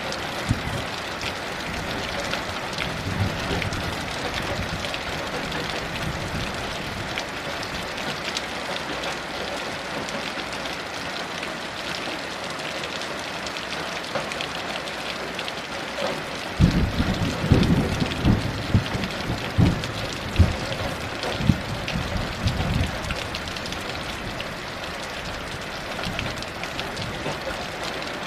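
Heavy rain falling steadily, with a rumble of thunder rolling in about halfway through and lasting several seconds.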